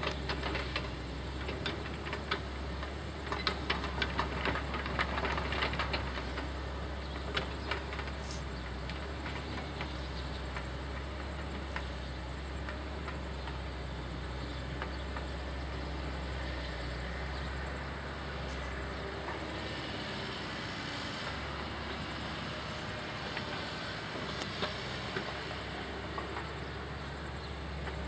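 Heavy diesel machinery running steadily with a low drone. A run of clicks and clattering knocks fills the first several seconds.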